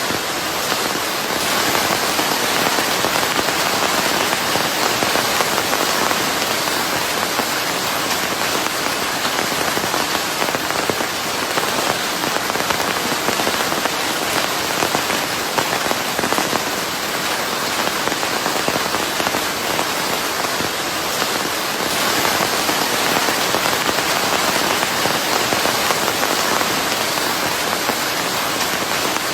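Steady rain falling, an even, dense hiss blended with white noise.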